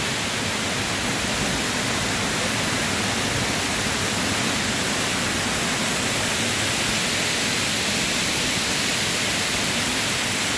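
A waterfall heard up close: a steady, even rush of falling water.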